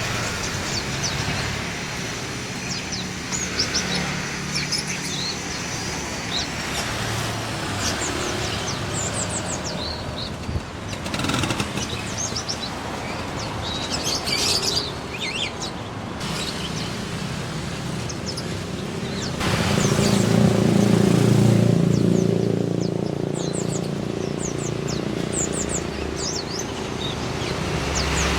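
Many small caged songbirds, sold in bulk, chirping and twittering over one another in short high calls. Road traffic runs underneath, with a louder low rumble about twenty seconds in.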